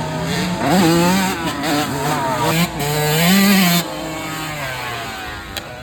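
Dirt bike engine revving up and down on a track, its pitch rising and falling with the throttle several times and dropping back near the end.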